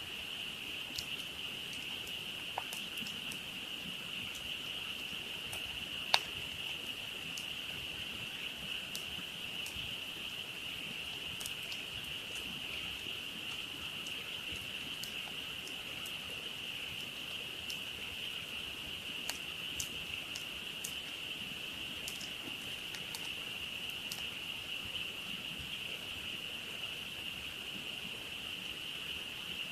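A dense, steady chorus of frogs calling, with a wood campfire crackling over it: scattered sharp pops, one much louder pop about six seconds in.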